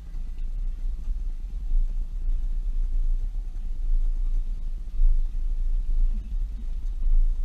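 Steady low engine and road rumble heard inside a moving vehicle.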